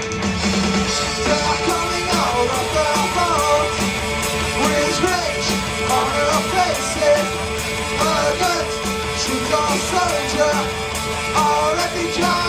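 Rock band playing: electric guitars, bass and drums, with a bending melody line carried over a held note.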